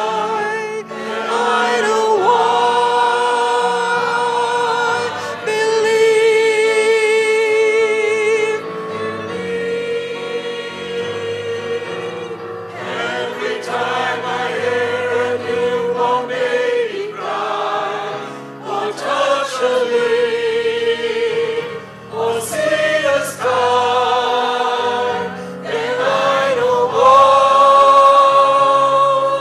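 A seniors' community choir singing a slow song in long held notes with vibrato, pausing briefly between phrases, over a low accompaniment.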